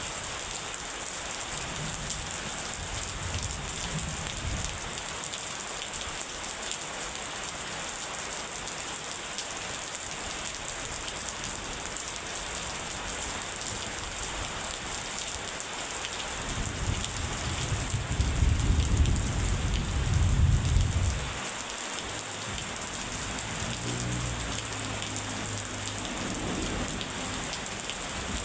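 Steady rain pouring down in a continuous hiss. Thunder rumbles low throughout, with one louder rolling peal about two-thirds of the way through that dies away a few seconds later.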